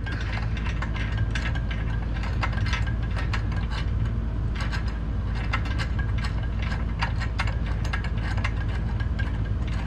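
Small metal hardware being handled: T-nuts and nuts fitted by hand, making many irregular light clicks and clinks over a steady low hum.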